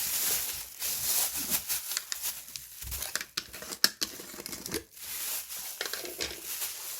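Plastic packaging crinkling and rustling with a few sharp clicks, as a container of salted shrimp is opened and handled.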